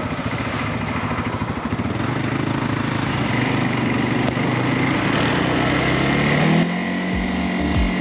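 CFMOTO ATV engine running, growing gradually louder. A little before the end, music with a steady low tone and a thumping beat comes in.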